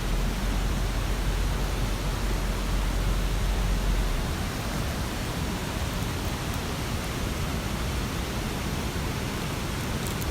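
Steady rushing water, an even hiss with no rhythm or pattern. A low rumble runs under it for the first four seconds or so.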